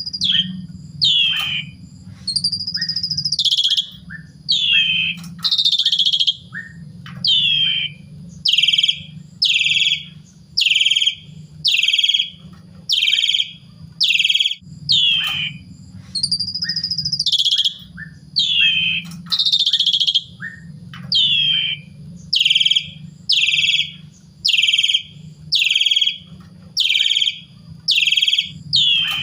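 A pied starling (jalak suren) singing a run of loud, repeated whistled calls, about one a second, each falling in pitch, with a few longer held notes among them.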